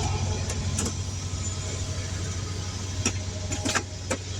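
A steady low engine hum runs throughout, with several short sharp clicks and taps from small items being handled.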